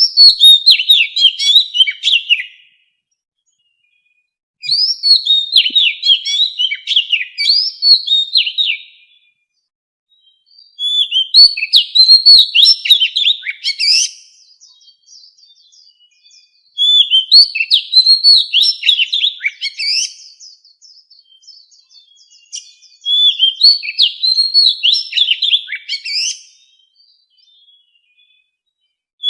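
Oriental magpie-robin singing: five phrases of quick, varied whistled notes, each two to four seconds long, with pauses of about two seconds between them and soft twittering in some of the pauses.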